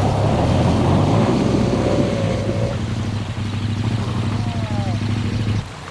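Motorcycle engine running steadily at a constant speed, cutting off suddenly near the end.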